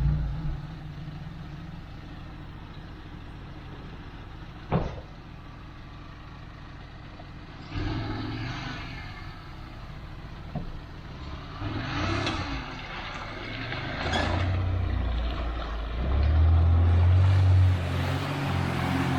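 Motor vehicle engine running off-road, its pitch and level rising in several surges and loudest near the end, with a sharp knock about five seconds in.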